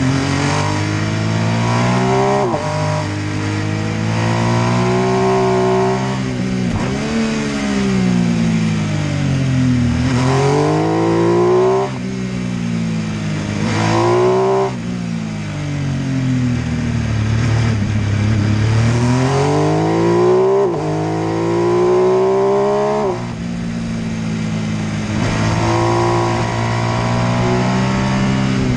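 MV Agusta F3 800's three-cylinder engine revving up and down through the gears: the pitch climbs under acceleration, drops sharply at each shift, and sinks in long falls when the throttle closes, about half a dozen times.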